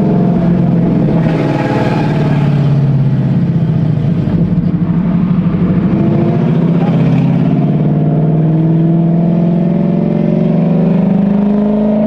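A 2013 Mustang GT's 5.0 Coyote V8 with its exhaust dumped after the X-pipe, running loud under way with a deep drone. The engine note drops about four seconds in, then slowly climbs again as the revs build.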